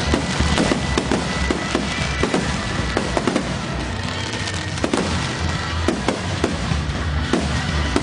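Aerial fireworks going off in rapid succession: a dense run of sharp bangs and crackling over a continuous low rumble of booms.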